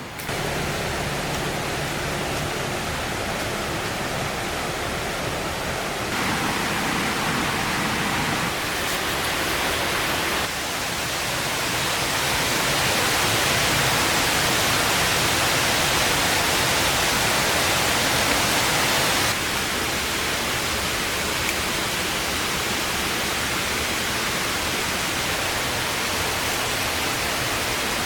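Steady rushing of flowing water, an even hiss without a beat, whose loudness steps up or down abruptly a few times.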